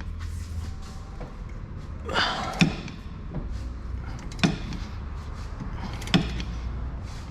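Three sharp, isolated metal knocks about 1.7 s apart, with a brief scrape before the first, as tools are worked against a seized rear suspension bolt that is extremely tight.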